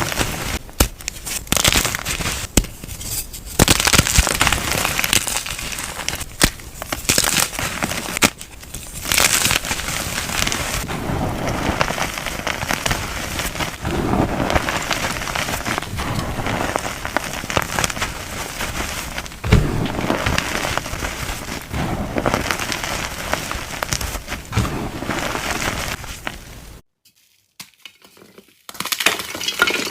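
Soft, crunchy round chalk pieces being crushed, crackling and crumbling with sharp crunches over a continuous gritty crunch. It stops for about two seconds near the end, then starts again.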